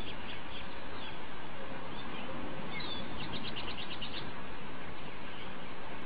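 Birds chirping over a steady background hiss, with a quick trill of about nine short, high notes about three seconds in.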